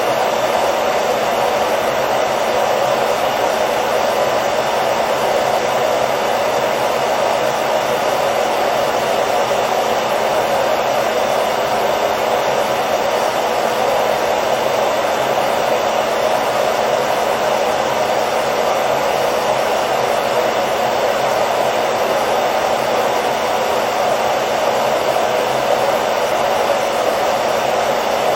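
Hair dryer running steadily: a constant even whoosh of the fan and airflow, with a faint motor hum and no change in speed.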